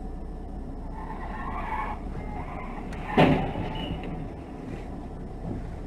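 Steady road noise of a moving car, with a brief noisy swell between one and two seconds in and one loud, sharp knock a little after three seconds.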